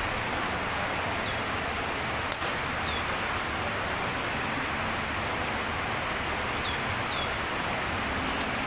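Steady outdoor hiss with small birds giving short downward chirps several times, and a single sharp snap a little over two seconds in.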